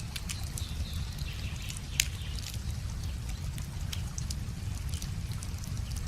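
Wood fire crackling, with sharp snaps and one loud pop about two seconds in, over the steady trickle of a small river.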